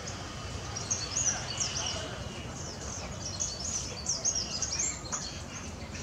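Small birds chirping: quick runs of short, high chirps from about a second in until about five seconds, over a steady low background hum.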